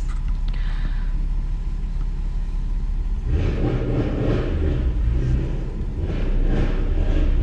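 BMW 325i straight-six engine, heard from inside the cabin, idling and then revving up about three seconds in, with the revs sagging briefly and rising again as a learner driver gives gas to pull away in reverse.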